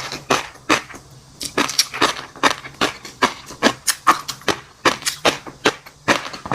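Close-miked chewing of fish roe and crunchy seafood: a continuous run of sharp crackling pops and crunches, about three a second.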